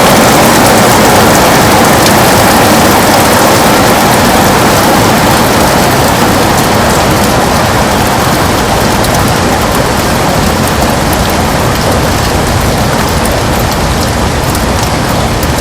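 Heavy rain falling and pattering steadily on a window, easing slightly in loudness.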